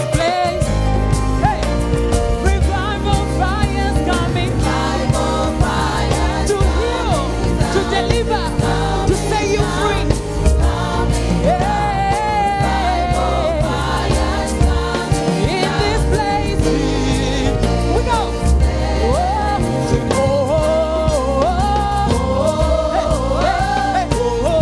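Gospel choir singing a worship song with a live band: a sung melody over a steady bass line and drums.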